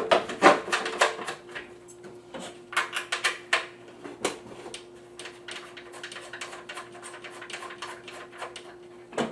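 Plastic parts of a General Aire 1042 furnace humidifier being handled and fitted back together: rapid clicks and rattles, busiest in the first four seconds, then sparser, with one sharp click near the end. A steady hum runs underneath.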